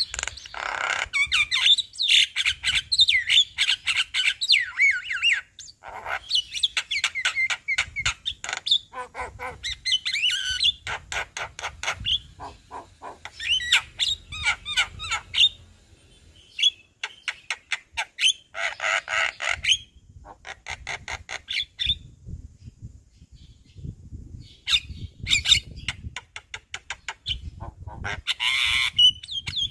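Javan myna (jalak kebo) singing at full voice through its repertoire of mimicked fill-in phrases. It mixes harsh squawks, fast runs of clicking notes and whistled phrases that glide up and down, with a few short pauses.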